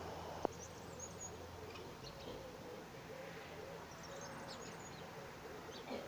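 Faint, high chirps of small birds in a few short bouts, with a single sharp click about half a second in.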